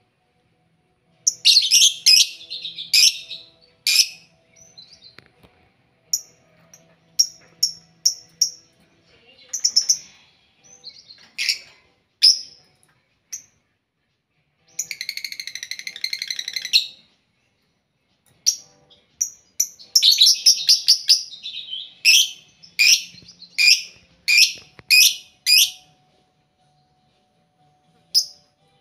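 Lovebirds calling: loud, shrill chirps in quick clusters, with a rapid rattling trill lasting about two seconds midway.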